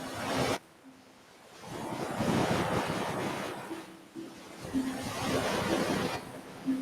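Ocean surf breaking and washing up a beach in surges: one wave cuts off just after the start, a larger one builds about two seconds in and fades, and another follows about five seconds in. A few short low steady tones sound faintly underneath.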